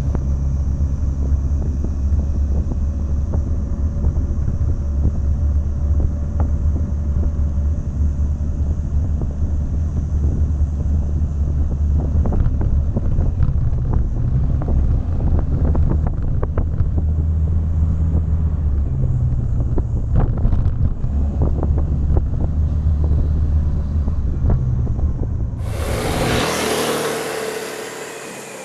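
A small scooter engine running steadily while riding, with many small clicks and knocks over it, as from a rough or gravel road. Near the end the engine sound gives way to a loud, bright hiss.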